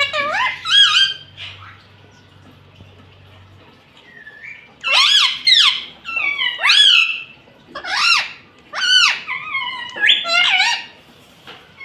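Pet parrot squawking: a couple of sharp calls at the start, a pause of about three seconds, then a run of about seven quick, shrill squawks, each sweeping up and down in pitch.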